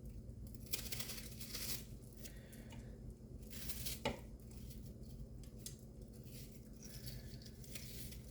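A kitchen knife cutting an onion, a few separate slicing and scraping strokes, over a steady low hum.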